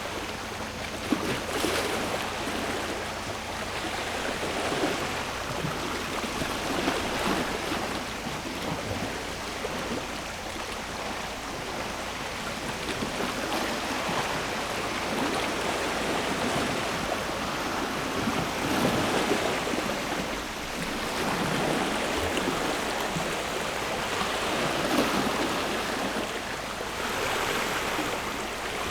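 Sea waves breaking and washing on the shore, each wash swelling and fading every few seconds.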